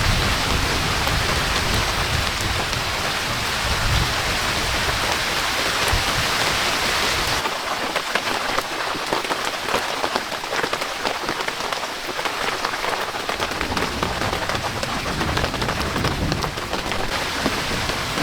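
Heavy rain with a low rumble of thunder underneath. About seven seconds in the sound changes abruptly: the rumble drops away and rain hitting a nearby surface is heard, with many separate drops.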